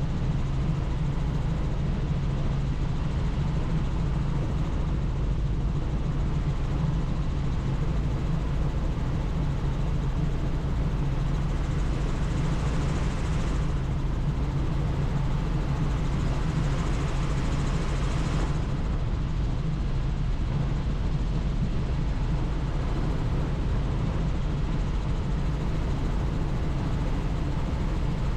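Helicopter in flight: steady rotor and engine noise mixed with rushing wind. The wind hiss grows stronger for a few seconds around the middle.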